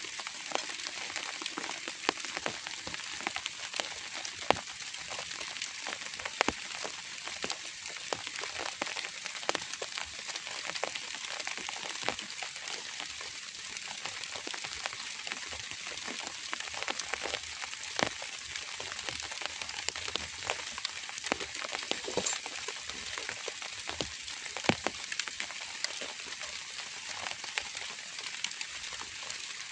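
Steady drizzle pattering, a dense even crackle with many scattered sharper drop hits.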